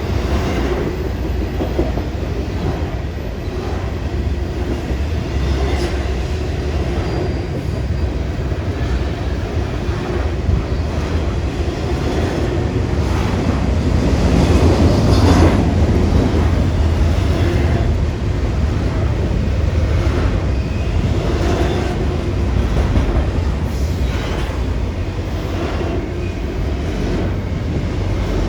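Freight train cars rolling past in a steady low rumble, their wheels clicking over rail joints, growing louder about halfway through.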